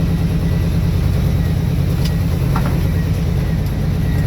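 Steady low rumble of a car's engine and tyres heard from inside the cabin while driving, with a faint click about two seconds in.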